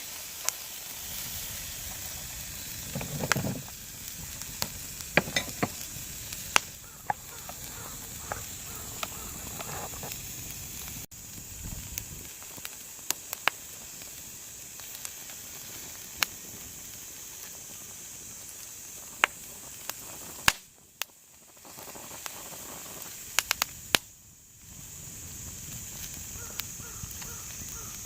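Beef sizzling in a pan over a wood fire: a steady frying hiss with scattered sharp pops and crackles.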